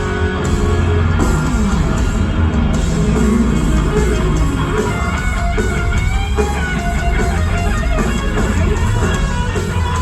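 Live rock band playing an instrumental passage, with an electric guitar lead whose notes bend and glide over the rest of the band.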